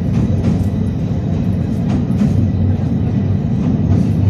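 Train running on the rails: a steady low rumble with faint, irregular clicks.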